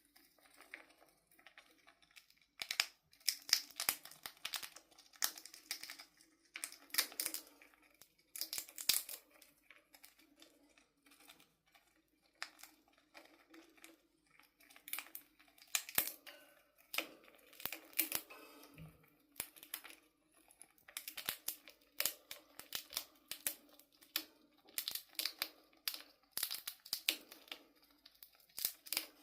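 Chipmunk cracking open peanut shells with its teeth: dry crackling and crunching in short bursts a second or a few seconds apart.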